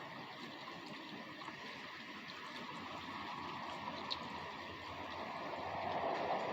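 Rain falling: a steady hiss of drops with scattered small ticks, swelling louder over the last couple of seconds.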